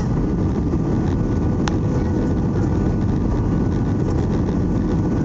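Steady engine and airflow noise heard from inside an Airbus A320's passenger cabin, with a faint steady hum and a single short click about a second and a half in.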